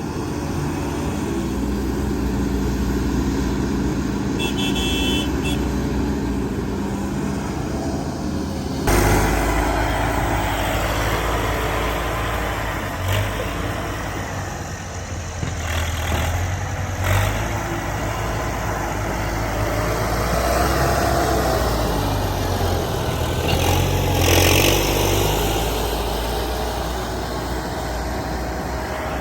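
Heavy diesel earthmoving machinery, an excavator and dump trucks, running steadily. There is a brief high beep about five seconds in, and the engine sound changes suddenly and gets louder about nine seconds in.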